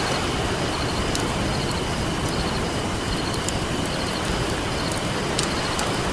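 Steady rush of ocean surf with a wood campfire crackling over it: scattered sharp pops and snaps every second or so.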